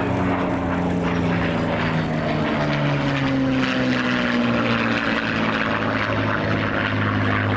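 Propeller aircraft engine flying past, its note sliding down in pitch as it passes. The sound cuts off suddenly at the end.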